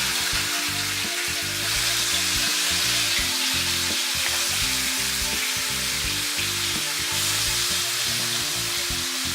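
Marinated chicken pieces sizzling and frying in hot oil in a pan: a dense, steady hiss.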